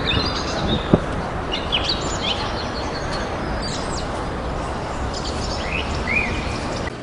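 Birds chirping in short, scattered calls over a steady background hiss of street noise, with one sharp tap about a second in.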